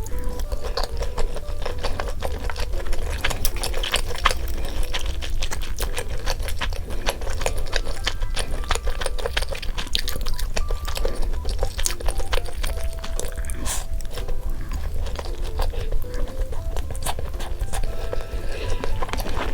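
Close-up eating sounds: chewing and biting crunchy food, with many crisp clicks, over light melodic background music.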